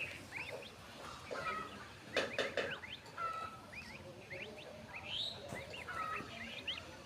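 Swans calling: a steady stream of short, high peeping chirps, with a louder, harsher cluster of calls a little over two seconds in.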